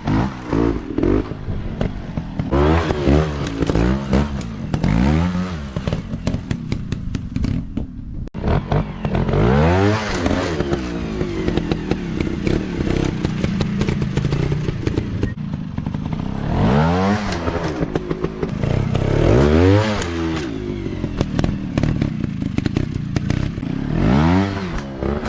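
Off-road motorcycle engines revving up and falling back in repeated surges, with clattering and scraping throughout.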